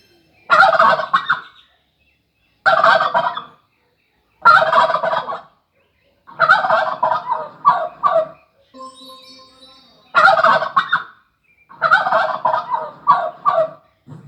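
Wild turkey gobbling: a series of loud rattling gobbles, about six, each lasting around a second.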